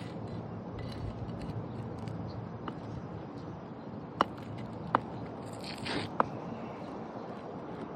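Three sharp metallic knocks about a second apart in the second half, with a short scrape between them, from a roofing tool working shingle nails loose, over a steady low background rumble.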